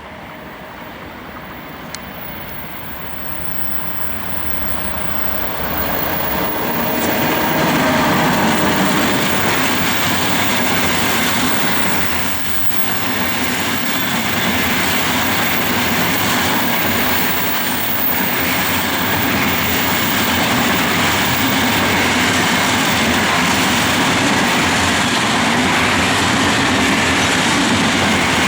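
Freight train hauled by a CFR class 40 (40-0243) electric locomotive approaching and passing. It grows louder over the first eight seconds or so, then holds as a steady loud rolling rumble as the train goes by.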